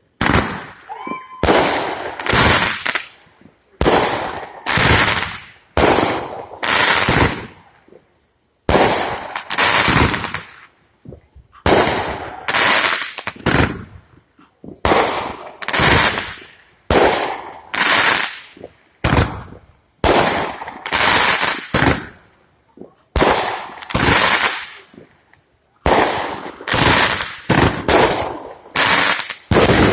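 Fireworks going off in a long, steady series of loud bangs, about one a second, each dying away quickly before the next.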